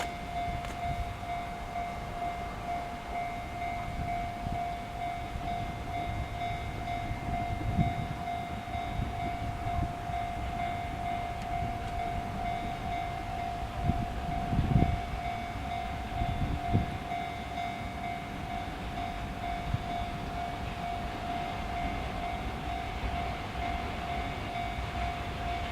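A railway level-crossing alarm ringing continuously with a steady, pulsing electronic tone, over the low rumble of a freight train: an EF64 electric locomotive hauling an unpowered DE10 diesel. A few louder knocks come from the wheels and couplings around the middle.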